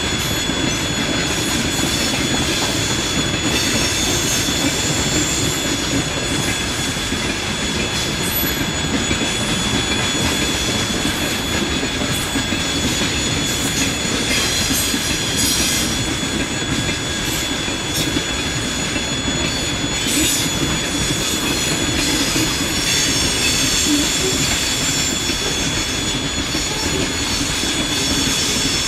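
A train passing close by on the Trans-Siberian line: a continuous loud rumble of wheels on rail, with a steady high squeal running over it.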